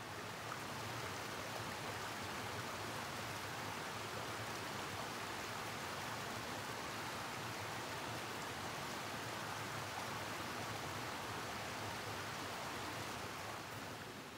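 Mountain stream rushing steadily over rocks. It grows louder just after the start and fades near the end.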